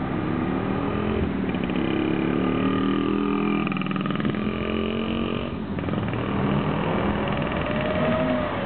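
BMW E39 540i's V8 running through an aftermarket stainless steel exhaust as the car drives by under throttle. The pitch climbs over the first few seconds, drops away briefly about five and a half seconds in, then picks up again.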